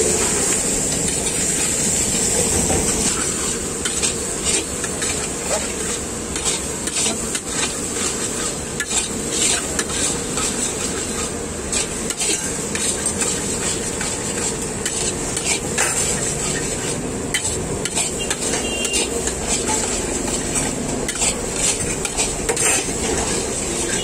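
Chopped onions, green chillies and peanuts sizzling steadily in hot oil in a large metal kadhai, the onion-frying stage of kande pohe. A long-handled metal spatula scrapes and clinks against the pan again and again as it stirs.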